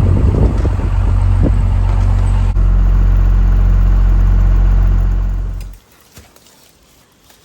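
An engine running at a steady speed, then shutting off about six seconds in.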